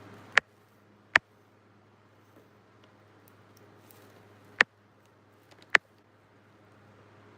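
Four sharp clicks or taps, two close together near the start and two more past the middle, over a faint steady low hum.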